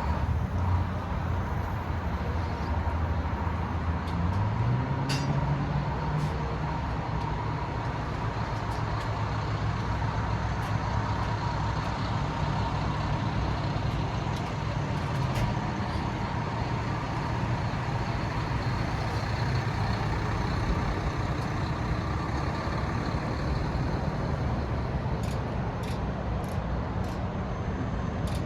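Cummins B6.7 turbo-diesel of a Mack MD truck running. About four seconds in its speed steps up to a higher steady idle. A faint steady whine runs over it for much of the time.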